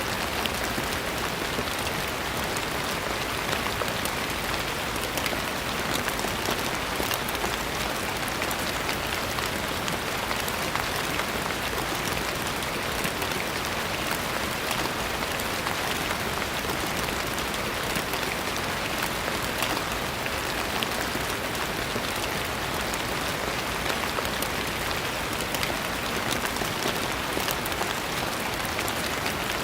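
Steady rain falling, a continuous even hiss with many small droplet patters.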